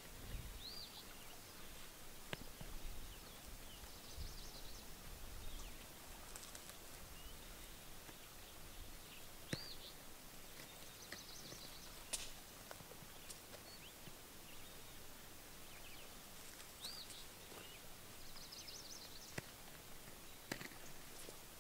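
Faint outdoor ambience with a songbird repeating the same high song about every seven seconds: a short arching note, then a buzzy trill. A few faint low rumbles come near the start, and there are occasional soft ticks.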